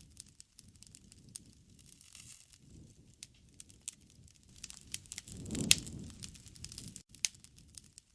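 Wood fire (bonfire) crackling, with irregular sharp pops over a soft low rush of burning. One louder pop comes about five and a half seconds in, and the sound cuts out for an instant about seven seconds in.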